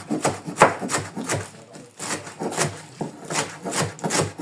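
Knife chopping callaloo leaves on a cutting board: a quick run of strokes, about three a second, with scraping between them.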